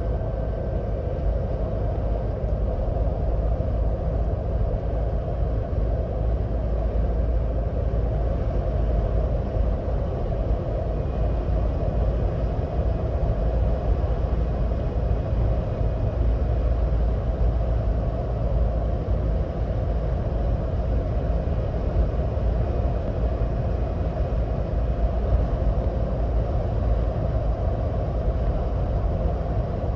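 Steady low road rumble and tyre noise of a 2026 Ford Bronco Badlands cruising at highway speed.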